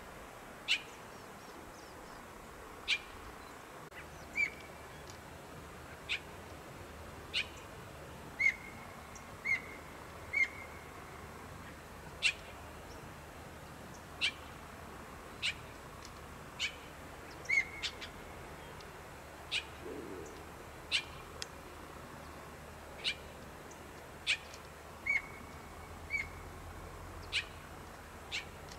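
A bird giving short, sharp call notes over and over, one every second or two, some trailing into a brief level whistle, over a faint steady hiss of outdoor air.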